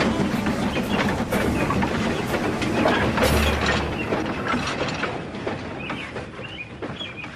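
Train running along the rails, its wheels clattering over the track joints, fading steadily as it draws away.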